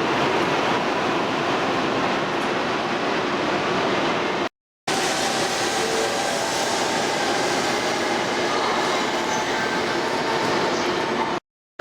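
E2-series Shinkansen train moving along the platform: a steady running noise with a faint whine in it. The sound cuts out briefly twice.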